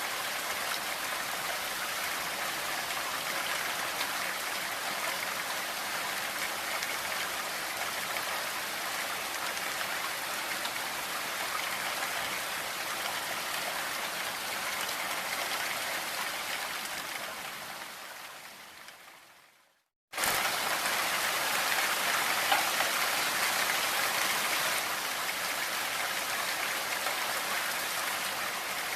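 Steady, dense rain hiss. About seventeen seconds in it fades away to a moment of silence, then starts again abruptly and a little louder, like a loop or edit point in the recording.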